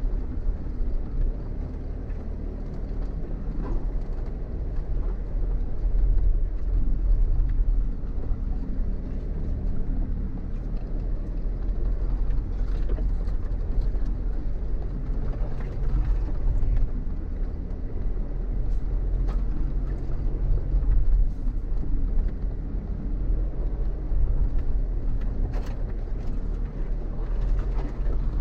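Off-road vehicle driving slowly over a rough dirt track: a steady low engine and road rumble whose pitch drifts a little, with scattered small knocks and rattles from the bumpy ground.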